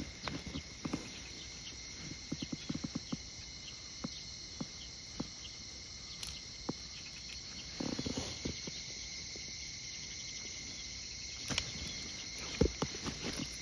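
Footsteps and scattered light taps of a walk, with a dense run of steps about two to three seconds in, over a steady high chorus of insects chirping. A short soft rustle comes about eight seconds in.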